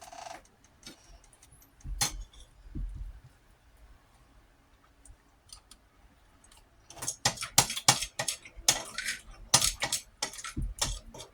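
Eating from a plate: a utensil clicking and clinking against the dish, a few scattered clicks at first, then a dense run of quick clicks from about seven seconds in.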